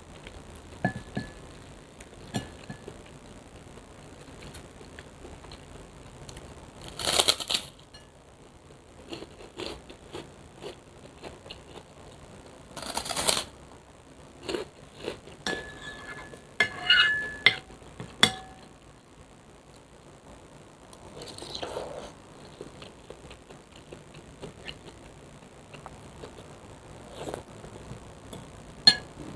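A person eating spicy soupy noodles close to the microphone: two slurps of about a second each, utensil clinks ringing against the bowl, and scattered small clicks of chewing.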